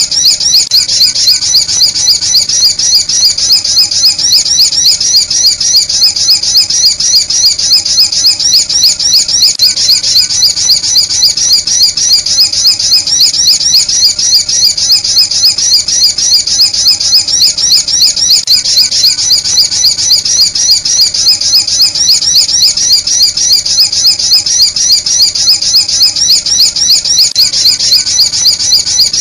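Sunbird lure call: high-pitched chirps repeated evenly, about four a second, without a break.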